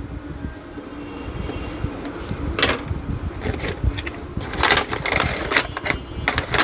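A toy car's cardboard box and plastic packaging being handled and opened: scattered rustles and clicks that grow busier about halfway through, over a low steady hum in the first half.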